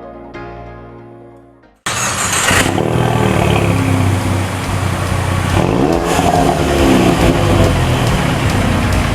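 Ford Mustang EcoBoost's 2.3-litre turbocharged four-cylinder with the mufflers deleted, cutting in suddenly about two seconds in and revving loudly, its pitch rising and falling near the middle. Soft, fading music is heard before the engine comes in.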